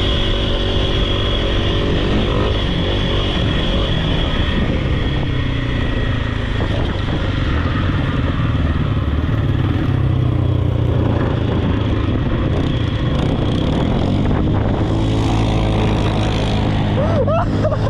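Off-road vehicle engine running steadily, its pitch rising and falling only slightly, with a few short high squeaks near the end.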